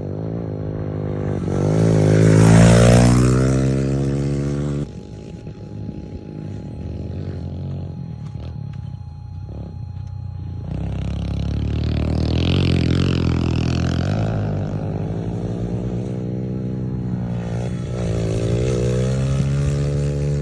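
Small off-road vehicle engine revving up and down as it is ridden. It is loudest about three seconds in, drops off suddenly near five seconds, and climbs again about halfway through.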